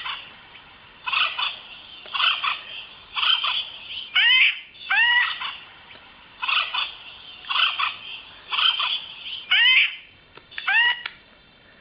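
Acorn woodpecker calls: about ten harsh calls, roughly one a second, each rising in pitch and then levelling off.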